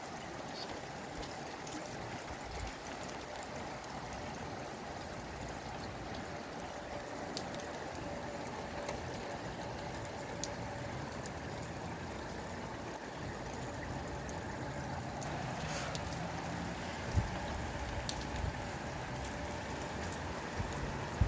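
Steady rain falling in gusty wind, with scattered drips and a single sharp knock about three-quarters of the way through.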